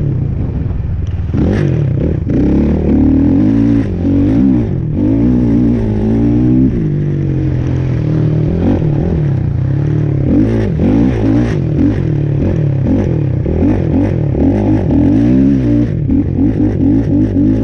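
A motor vehicle engine revving up and down over and over, its pitch rising and falling every second or so, with some rattle and clatter.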